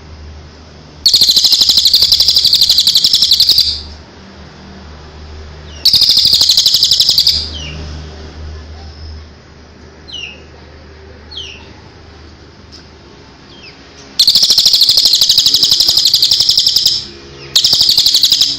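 A songbird singing in four loud bursts of very rapid, buzzing trills, each lasting one to nearly three seconds, with a few short single chirps in the pauses between them.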